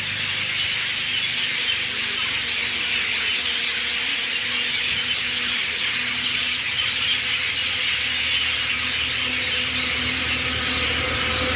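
Many birds calling at once in a dense, steady chattering chorus of high chirps.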